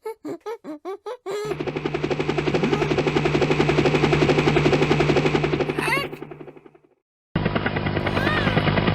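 Cartoon vehicle sound effect: a fast mechanical rattle over a steady low hum, running about five seconds and fading out, then starting again after a short gap. It is preceded by a few bouncy musical notes.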